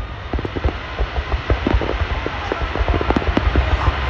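Fireworks display: a dense barrage of aerial shells, many rapid sharp pops and crackles over a continuous low rumble, the crackling thickening from about a second in.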